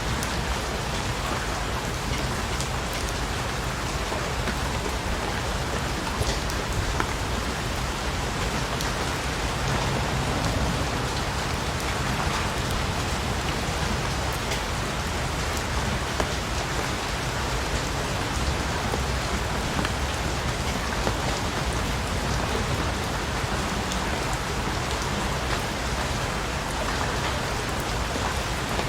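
Steady rain falling: an even hiss with scattered sharp drop ticks and a low rumble underneath, unchanging throughout.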